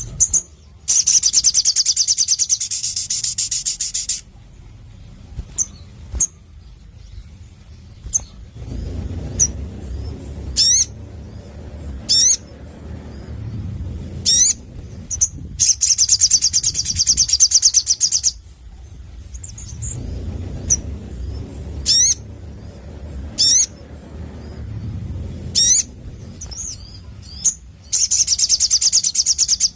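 Sogon (sunbird) calling: rapid, high, rattling trills lasting a couple of seconds, three times, with single sharp sweeping chirps in between.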